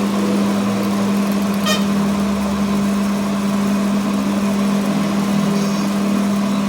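A machine or engine running steadily, with a constant low drone and a brief sharp rattle about two seconds in.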